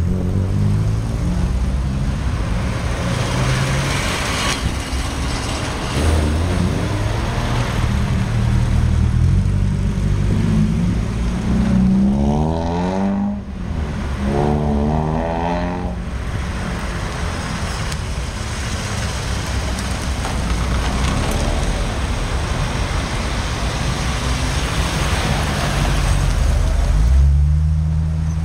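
Classic car engines running, one after another, with their pitch shifting up and down as they rev and drive past; a marked rise and fall in engine pitch comes about halfway through.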